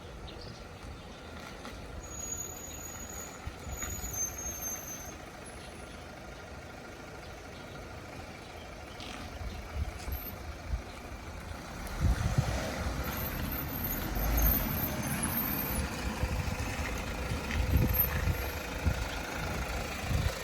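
Harsh, high-pitched brake squeal from a Mazda CX-5's wheel, heard as thin shrill tones a couple of seconds in and again about two-thirds of the way through, over the car's low running rumble, which grows louder in the second half. The noise comes from the brake system, not the drive shaft it was first taken for.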